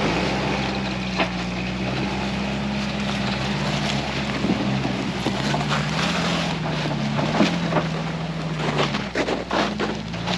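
Vehicle engine running steadily, its pitch shifting around the middle, with a run of knocks and clatter near the end.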